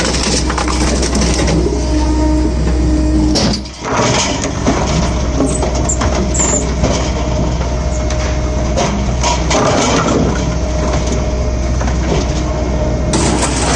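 Electric firewood processor running: a steady low hum from the motor and hydraulic pump, with irregular cracks and knocks of logs being split. The noise drops out briefly about four seconds in.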